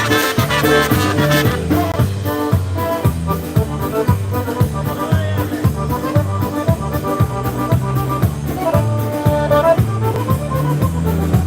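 Live polka band playing an instrumental polka: accordion and brass carry the melody over a steady oom-pah bass beat.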